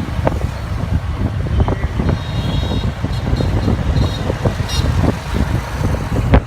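Motorcycle on the move, with a loud, gusty low rumble of wind buffeting the microphone. There is a sharp knock just before the end.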